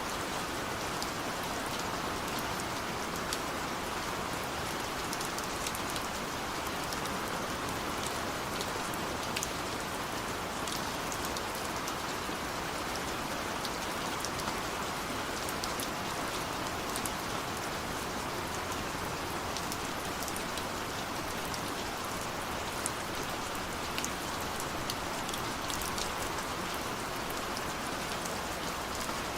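Steady rain falling on a window, an even hiss with many small drops ticking against the glass.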